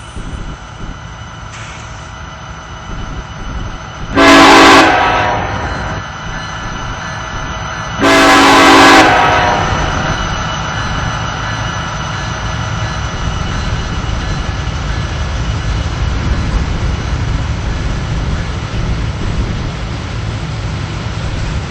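Diesel freight locomotive horn sounding two blasts, a short one about four seconds in and a longer one about four seconds later, followed by the heavy, steady rumble of the CN coal train's locomotives and cars that builds as the train comes by.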